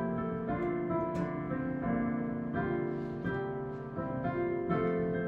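Instrumental interlude of a hymn on piano, a melody of sustained notes that change about every half second.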